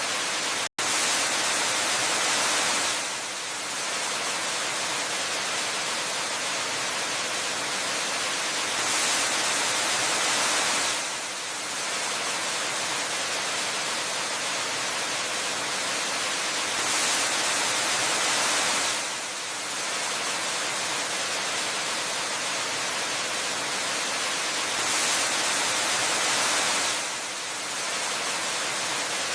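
Waterfall ambience: a steady rush of falling water, bright and hiss-like, swelling gently every eight seconds or so in a regular repeating pattern. There is a split-second cut-out less than a second in.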